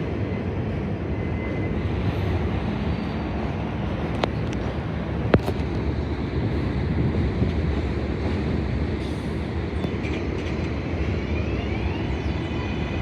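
New York City subway train running through the station: a steady rumble, with two sharp clicks about four and five seconds in and faint wheel squeal setting in near the end.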